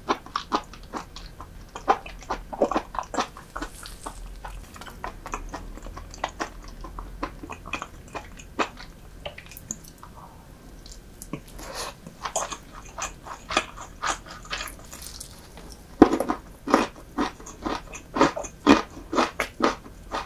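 Close-miked chewing of soy-marinated raw seafood with rice: a dense run of short, wet mouth clicks and crunches. The clicks grow louder and closer together in the last few seconds.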